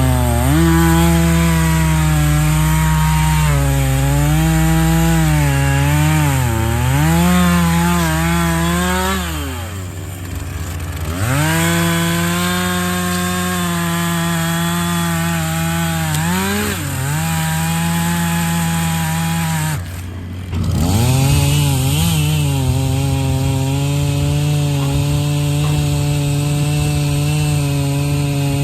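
Two-stroke chainsaw cutting through a maple log at full throttle, its pitch sagging under load in the cut. The throttle drops off briefly twice, about ten and twenty seconds in, and revs back up.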